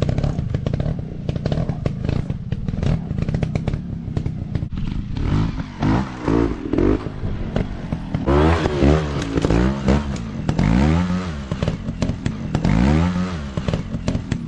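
Dirt bike engine running roughly at low speed amid clattering and scraping, then revved up and down in a series of short throttle bursts from about eight seconds in.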